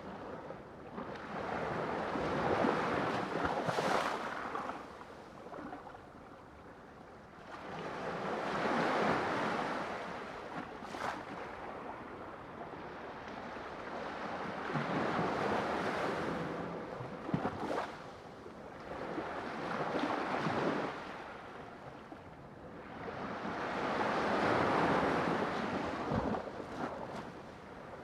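Ocean waves washing onto a shore: surges of surf that swell and fade about every five to six seconds, five times in all, with brief sharp crackles near some of the crests.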